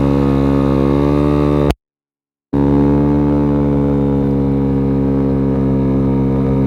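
Dongfang DF50SST 50cc scooter engine running at a steady pitch while riding at speed. The sound cuts out completely for under a second about two seconds in, then comes back unchanged.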